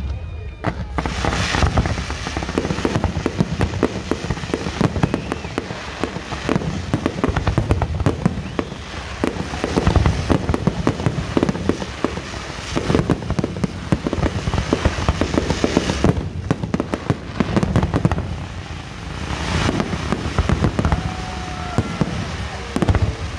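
Aerial fireworks bursting in a rapid, unbroken run: deep booms of shells going off amid dense crackling bangs.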